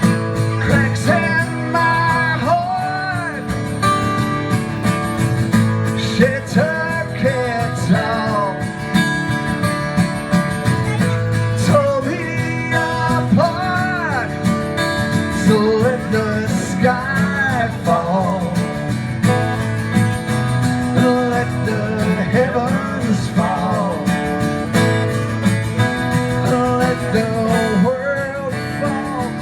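Live acoustic country-folk music: strummed guitar with a lead melody line of bending, sliding notes over it, an instrumental passage with no singing.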